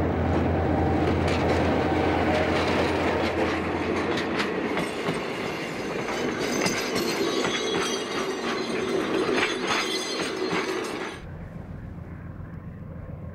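Passenger train passing close: the diesel locomotive's engine hum at first, then the carriages rolling by with clattering, rattling wheels. About eleven seconds in the sound drops suddenly to a quieter, distant low rumble.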